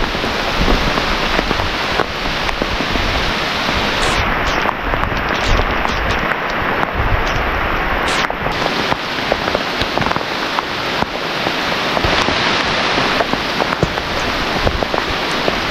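Heavy rain pouring down: a dense, steady hiss full of close drop hits.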